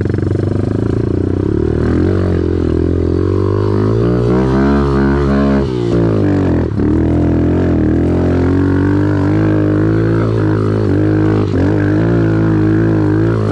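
Off-road vehicle engine running loud and close, held on the throttle, its pitch rising for a couple of seconds about four seconds in and dipping briefly twice later on.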